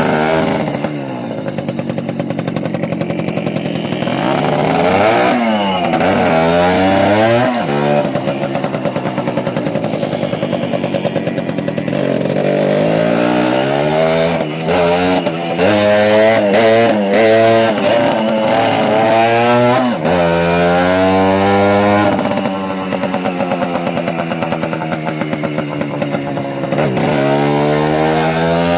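Small motorcycle engines running hard on a ride, their pitch repeatedly climbing and dropping as the riders accelerate, shift and ease off. At times two engines at different pitches are heard at once.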